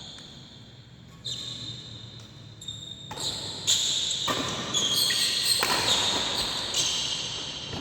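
Badminton players' court shoes squeaking in short high chirps, with sharp racket hits on the shuttlecock during a rally. Crowd noise in the hall swells from about three seconds in.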